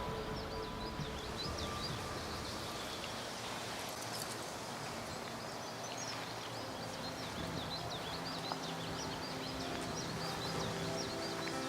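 Small birds chirping in rapid, high-pitched series over a steady rushing noise. Faint background music fades out at the start and comes back in over the last few seconds.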